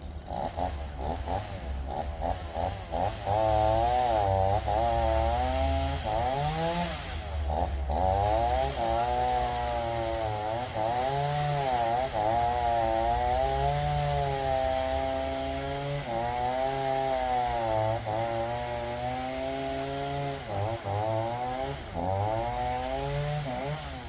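Makkie 38cc two-stroke chainsaw cutting through logs. A few quick throttle blips come first, then a long run where the engine pitch keeps sagging and climbing as the chain bites into the wood and frees up again.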